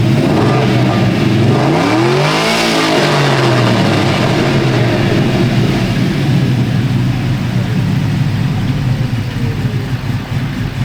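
A car engine idling loudly with a deep, steady note, blipped once about two seconds in so that its pitch rises and falls back, then idling on.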